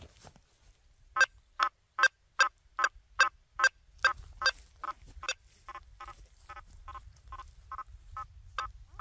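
Quest V80 metal detector's audio: a steady run of short beeps, about two and a half a second, starting about a second in. They are louder at first and softer from about halfway, as the coil passes over targets on a nailboard.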